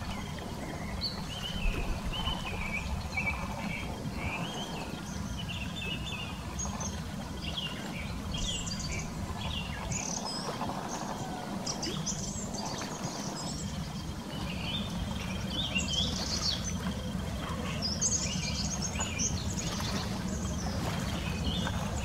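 Wild birds chirping and calling, many short chirps at irregular intervals, over a steady low rumble.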